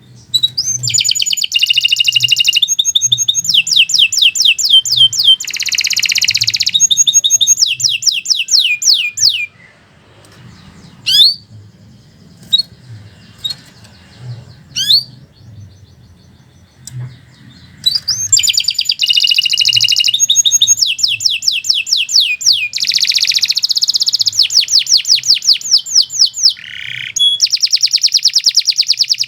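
Domestic canary singing in long runs of rapid trilled notes. The song breaks off about ten seconds in, leaving only a few single chirps for several seconds, and the fast trilling resumes near eighteen seconds.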